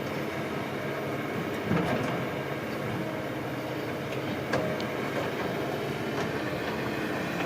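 Diesel engine of tracked heavy earthmoving machinery running steadily, with a few sharp metallic knocks and clanks from the machine working.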